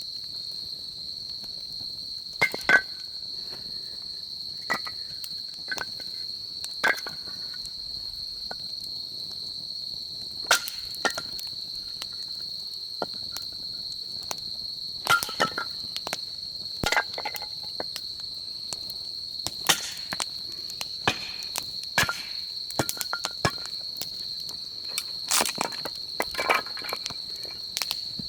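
Wood campfire crackling, with irregular sharp pops and snaps scattered through the burn, over a steady high-pitched drone.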